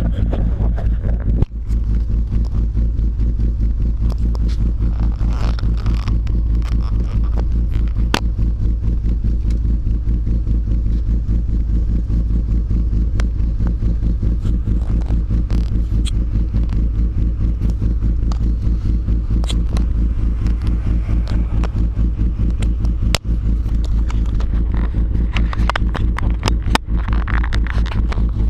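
BMW S50B32 3.2-litre straight-six exhaust through a B&B cat-back system, running at a steady engine speed with a loud, low, even drone. A few sharp clicks stand out.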